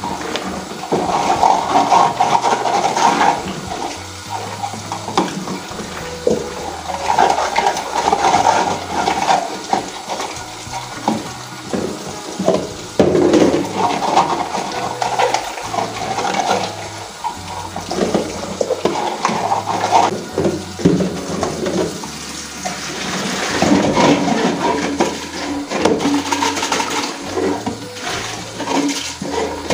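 Water running from a tap into a sink and splashing, with occasional knocks of items being handled in the water.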